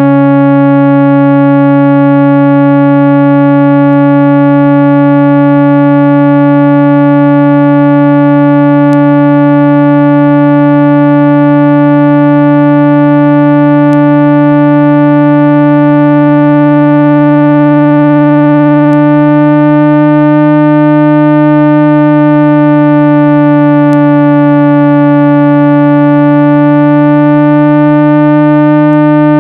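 A loud, steady 165 Hz speaker-cleaning tone: a continuous low synthesized hum with a ladder of overtones above it. It is played to vibrate dust and small particles out of a phone speaker. Its higher overtones waver slightly about two-thirds of the way through.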